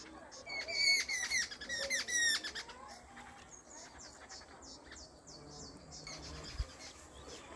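Small birds chirping: a quick run of sharp, falling calls during the first two seconds or so, then fainter chirps repeating until near the end.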